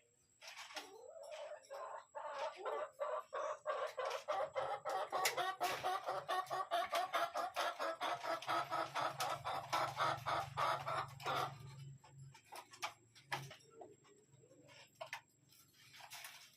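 A bird calling in a rapid run of clucking notes that starts about half a second in and stops about twelve seconds in, followed by scattered clicks.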